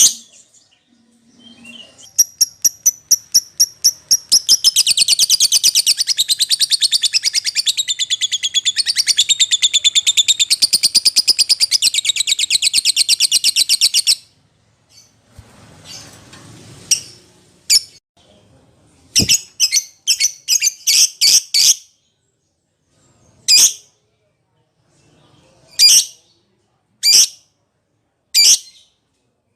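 Lovebird calling: a run of rapid, sharp high notes builds into a long, fast chattering trill for about ten seconds. After a short pause it gives separate shrill chirps, first in quick clusters, then single chirps about a second or more apart.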